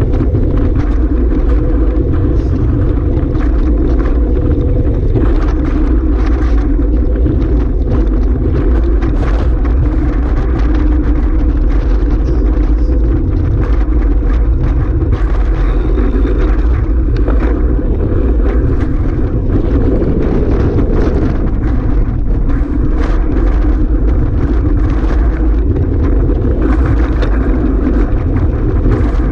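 Strong wind buffeting the microphone in a loud, steady rumble, with a steady drone underneath.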